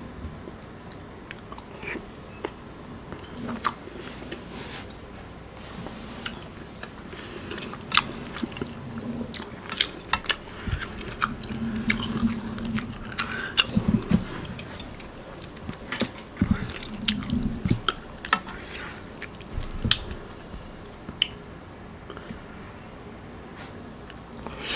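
Close-miked chewing of a mouthful of Chinese takeout (sweet and sour chicken), with many wet mouth clicks and smacks and a few brief low hums.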